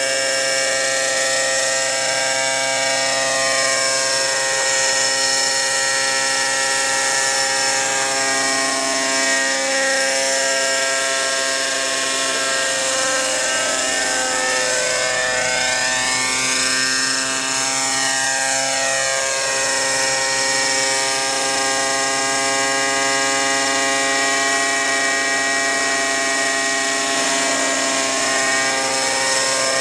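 Glow-engine radio-controlled model helicopter (a Shuttle fitted with a Fantec muffler) running at a steady engine speed, its small engine and rotor giving an even buzzing drone whose tone slowly swirls and phases as the model shifts position.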